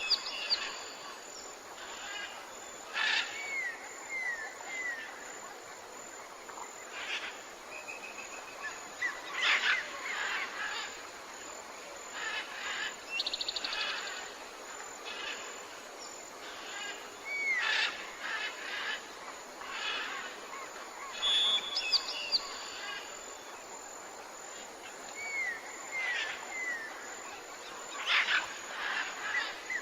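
Tropical forest bird chorus: many birds calling over a steady background hiss. Groups of three short, falling chirps come twice, and a quick rattling trill comes once near the middle.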